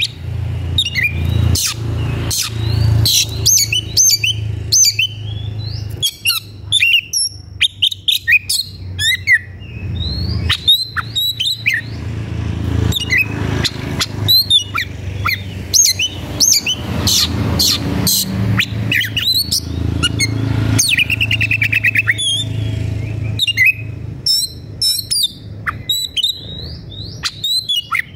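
Oriental magpie-robin (kacer) singing loudly and without pause: a dense stream of varied whistles, chirps and harsh notes, with a fast buzzy trill about three-quarters of the way through, over a steady low background hum. It is the aggressive, worked-up song of a bird seeking a rival to fight.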